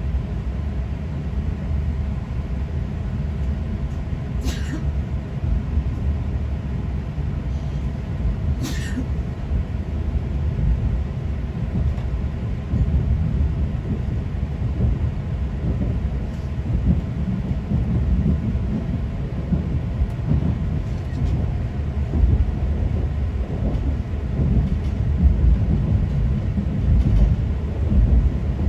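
Inside the passenger cabin of an E6-series Shinkansen pulling out of Tokyo: a steady low running rumble that grows slightly louder as the train gathers speed, with two brief high-pitched squeaks in the first ten seconds.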